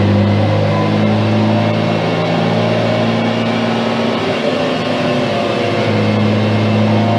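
Steady machinery hum: a low drone of several steady tones over a noisy mechanical background, without a break.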